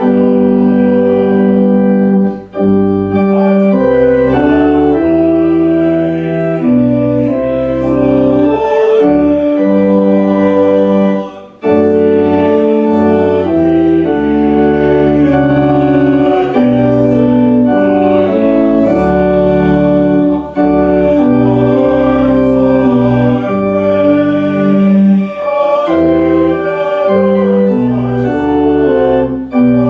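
Church organ playing slow, held chords that change about once a second, with short breaks between phrases about 2.5 and 11.5 seconds in.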